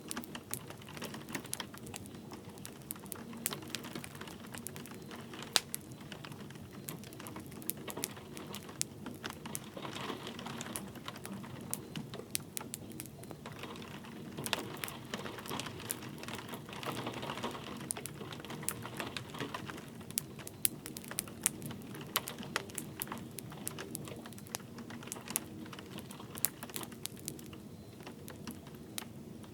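Wood fire crackling in a fireplace, with dense irregular pops and snaps over a low steady hiss of light rain.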